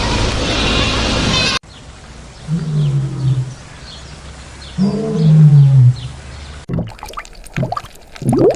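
An animal giving two low, drawn-out calls, each about a second long. After an abrupt cut come quick splashing, liquid sounds near the end.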